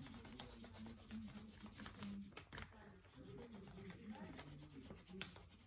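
Faint scratching of a pencil shading lightly on paper, pressed only very gently, with a couple of small clicks.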